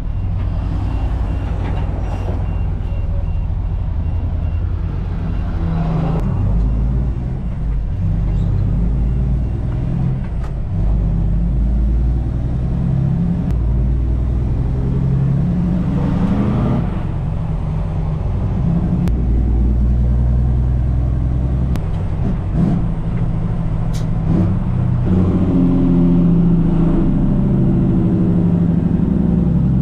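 Truck diesel engine running while the truck is driven, a steady drone whose pitch shifts up and down several times as engine speed changes.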